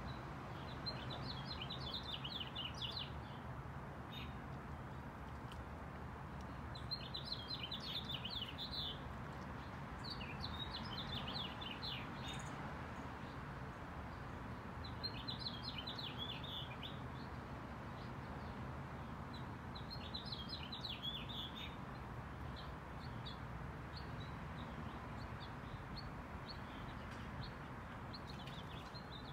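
A small songbird singing: five rapid, twittering phrases of about two seconds each, separated by pauses, then shorter single chirps near the end. A steady low background noise runs beneath.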